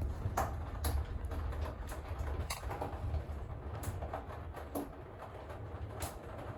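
Thunderstorm rain falling, with irregular sharp drips tapping a few times a second over a steady low rumble.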